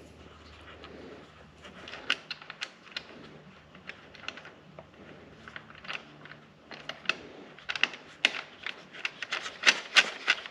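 Small metal clicks and taps of hardware being handled as a nut is fitted onto a bolt of the tractor's air cleaner support bracket. The clicks are scattered at first and come thicker and sharper over the last few seconds.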